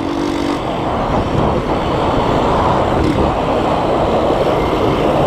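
A loud horn blast with several steady tones cuts off about half a second in, followed by a steady rush of vehicle and street traffic noise.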